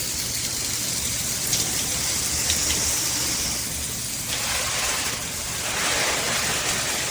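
Water spraying from a handheld shower head, a steady hiss that grows fuller and louder about four seconds in, then eases.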